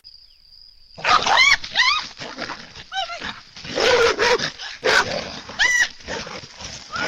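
A dog barking in repeated loud bursts, starting about a second in, with rougher, noisier growling between the barks.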